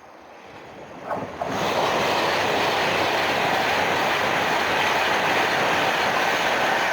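Train passing close by at speed: its rush builds quickly over the first second and a half, then stays loud and steady.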